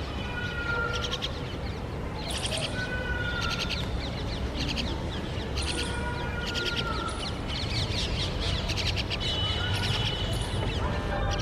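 Common mynas calling: repeated harsh, rasping chatter bursts about every second or so, mixed with short whistled notes, over a low steady background rumble.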